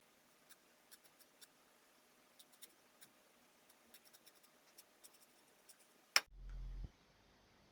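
Faint, scattered light ticks and scratches of hand work on wood, then a single sharp click about six seconds in followed by a brief low hum.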